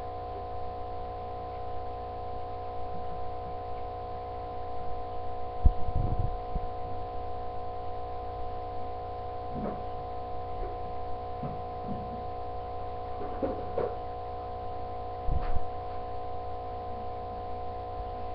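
A steady hum of several held tones over a low rumble, with a few knocks and thumps. The loudest thumps come about six seconds in and again about fifteen seconds in.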